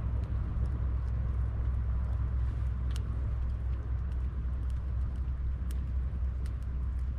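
Wood campfire of branches and driftwood burning, with scattered sharp crackles and pops, the clearest about three seconds in and a few more near the end, over a steady low rumble.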